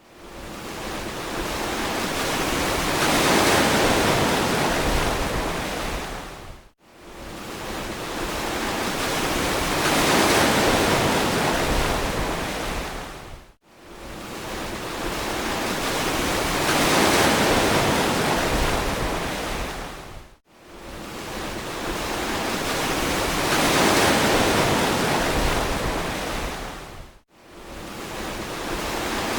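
Ocean waves surging and washing on a beach. The surf swells and fades in a regular cycle of about seven seconds, four times over. Each cycle ends with an abrupt, brief drop to near silence.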